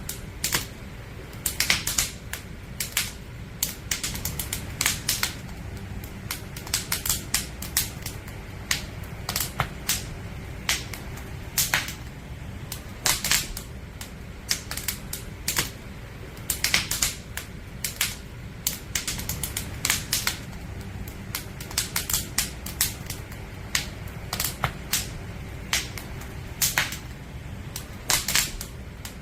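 Wood fire crackling, with dense, irregular sharp pops and snaps of burning logs over a steady low rumble of the flames.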